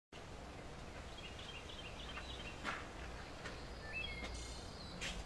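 Outdoor ambience: small birds chirping in short repeated calls over a low, steady background noise, with a few brief clicks.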